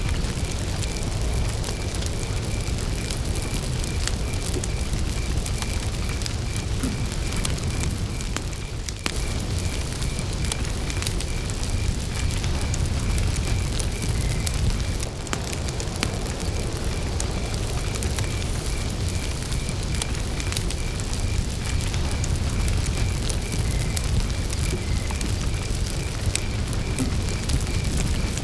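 Wood campfire burning with scattered sharp crackles and pops over a low steady rumble, while crickets chirp in a steady, even, high-pitched pulse throughout.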